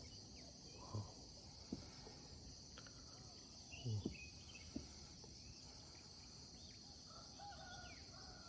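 A steady, high-pitched chorus of insects, with a few soft knocks and rustles mixed in.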